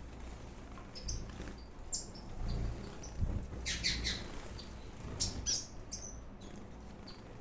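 Small ornamental aviary birds chirping in short, high calls, with a thicker flurry of calls about halfway through.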